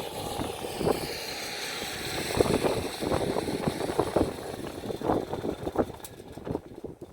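Footsteps and knocks, irregular and a few a second, over a steady rushing background that fades and drops away near the end.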